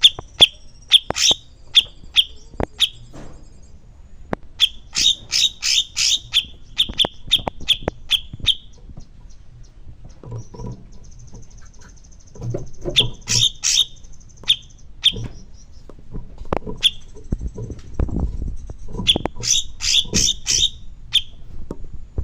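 Cucak cungkok bird singing: runs of loud, sharp, repeated notes several times a second, broken by a thin, high trill, with scattered faint low knocks.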